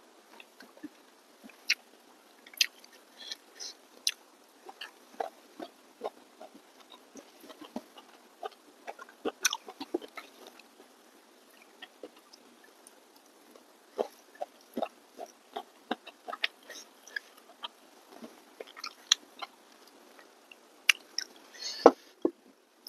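A person chewing and biting food with wet mouth clicks and smacks, while fingers handle rice and curry. The sounds come as irregular short clicks throughout, with the loudest bite near the end.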